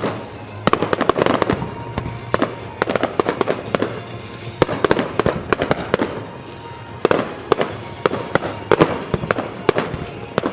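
Aerial fireworks going off in rapid volleys: clusters of sharp bangs and crackles, a new burst of reports every second or two.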